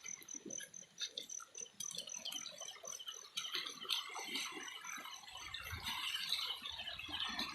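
Faint water sounds, small splashes and drips, with scattered light clicks and rattles. A thin, high, pulsing tone runs through the first three seconds or so and then stops.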